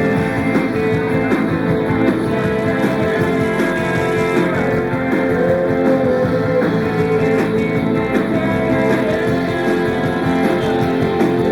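Live rock band playing an instrumental passage, led by guitar, with bass and drums, recorded from the audience.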